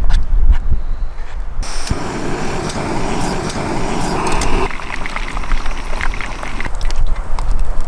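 Beer-battered smallmouth bass fillets frying in hot oil, a dense sizzle with many small crackles. Wind buffets the microphone with a deep rumble at the start and again near the end.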